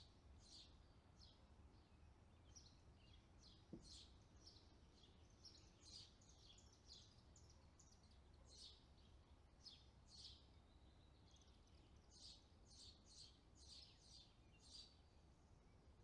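Faint, high-pitched bird chirps, short and repeated in loose runs, over a low steady background rumble. A single soft tap comes a little under four seconds in.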